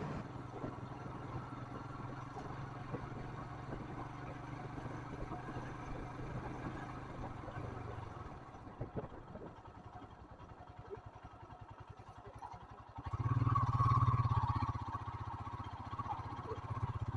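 Royal Enfield Himalayan's 411 cc single-cylinder engine running at a steady low pace, falling quieter and uneven for a few seconds midway, then louder again about thirteen seconds in as the bike pulls away.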